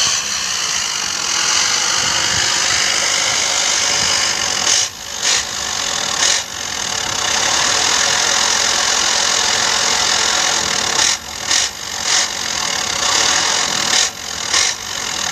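Truck engine running hard and rattling as it struggles through deep mud: a loud, noisy drone with a few brief dips.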